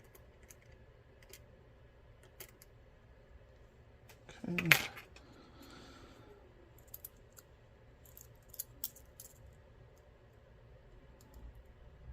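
Small metal clicks and taps of a tool working a slider out of a disassembled Mul-T-Lock MT5+ lock, irregular and sparse, with a louder click a little over four seconds in and a quick cluster of clicks between about seven and nine and a half seconds in.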